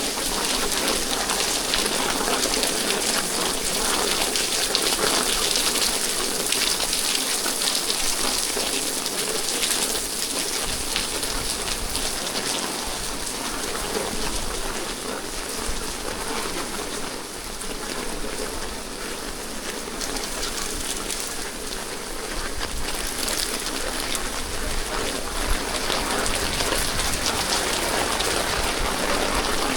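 Steady rain falling, a continuous hiss with a dense patter of drops.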